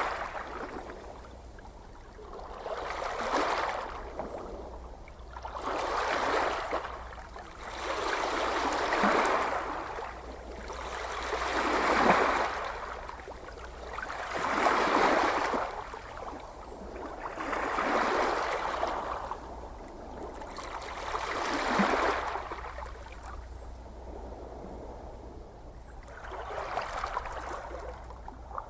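Gentle ocean waves washing in, about nine swells that each rise and fall over two to three seconds, over a steady low rumble.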